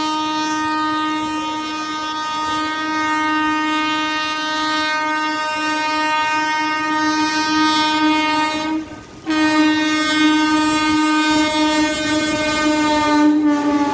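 Horn of a WAP-7 electric locomotive sounding a long, steady blast, cut off for a moment about nine seconds in and then sounding again, dropping slightly in pitch near the end.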